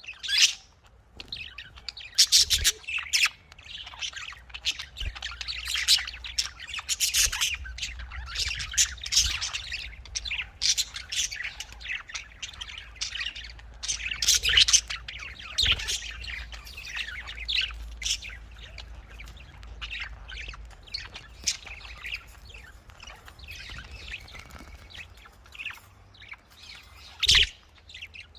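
Budgerigars (Australian parrots) chirping and chattering continuously, a dense run of short overlapping chirps with sharper squawks mixed in.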